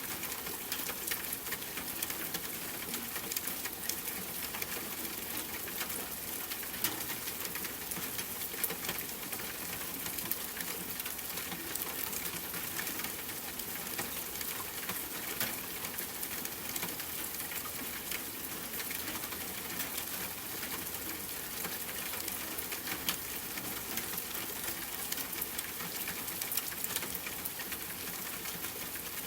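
Steady rainfall mixed with a crackling wood fire, with small sharp pops and crackles scattered irregularly over the even hiss.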